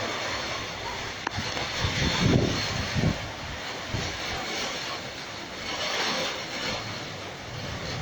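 Steady rain hiss with low thunder rumbles rolling in, the loudest swell about two to three seconds in.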